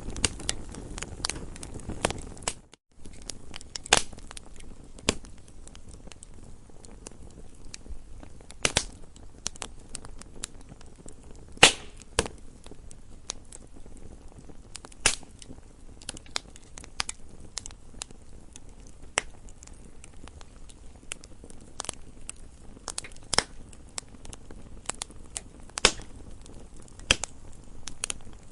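Crackling campfire: wood snapping and popping in sharp, irregular cracks over a low steady burning sound, with one louder pop about twelve seconds in. A brief drop-out just before three seconds in.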